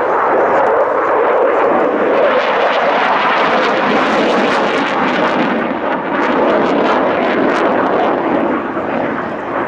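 Airplane engine noise, loud and steady, from an aircraft in flight.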